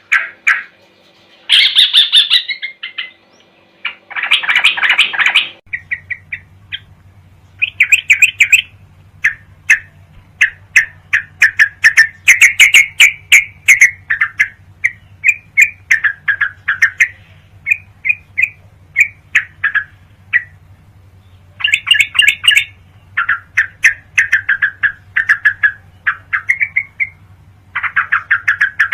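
Yellow-vented bulbul (trucukan) song recording: runs of quick, chattering chirps in short phrases with brief pauses. A steady low hum sits under the song from about six seconds in.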